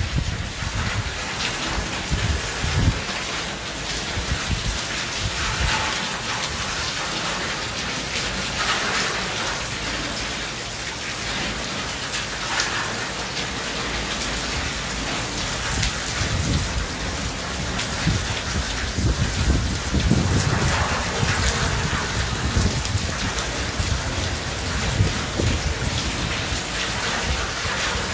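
Heavy rain falling and pattering on surfaces, a steady dense hiss, with low rumbles coming and going, strongest a little after two-thirds of the way through.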